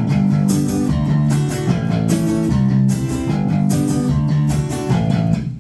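Live band playing an instrumental passage between verses: electric guitars and bass with drums keeping the beat. The band stops briefly near the end.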